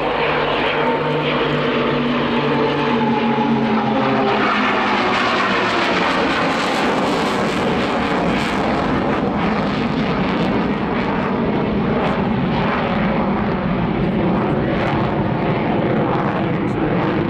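Formation flypast of an F/A-18 Hornet jet fighter with nine Pilatus PC-7 turboprop trainers. A propeller hum falls in pitch during the first few seconds as the aircraft pass, then gives way to a steady roar.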